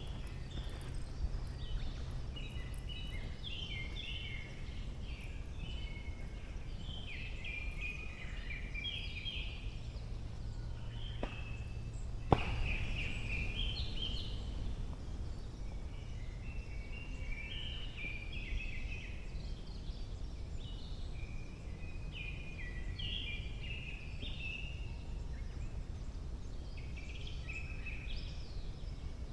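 Songbirds singing in a forest canopy: many short, chirpy phrases overlapping throughout, over a low steady rumble. A sharp click about twelve seconds in is the loudest sound.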